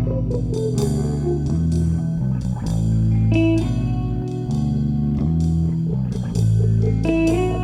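A live band playing an instrumental passage: bass guitar holding low notes under electric guitar lines, with drums keeping time.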